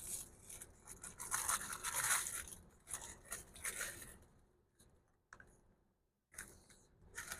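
Wrapper of a small burrito crinkling and tearing as it is unwrapped by hand, in several rustling bursts over the first four seconds, then a lull broken by a click and a couple of brief rustles near the end.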